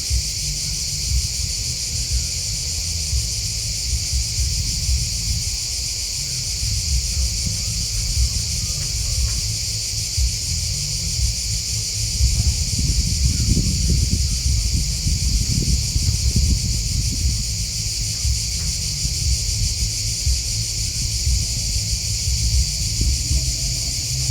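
A continuous, high chorus of chirping insects, crickets and grasshoppers, holding steady throughout. Beneath it runs an irregular low rumble that grows stronger about halfway through.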